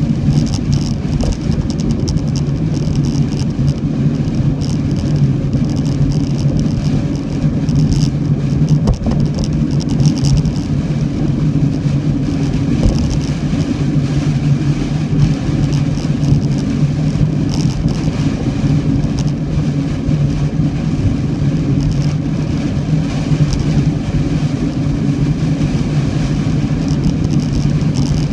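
A car running steadily: a constant low hum with a steady hiss of noise over it, unchanging throughout.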